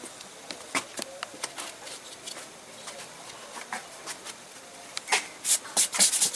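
Hands working potting soil around herb plants in pots: scattered light clicks and rustles, then a quick run of louder scrapes near the end.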